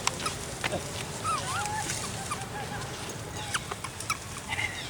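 Macaques giving short, high squeaks and chirps, several brief calls that bend up and down in pitch, mixed with scattered clicks and taps.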